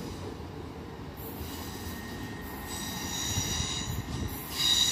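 Great Western Railway Class 800 train pulling away, a steady low rumble with high-pitched wheel squeal coming in about halfway through and loudest near the end.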